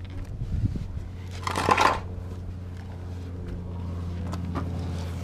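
Handling noises from work on the truck, with a short noisy burst about a second and a half in and a few light clicks, over a steady low hum.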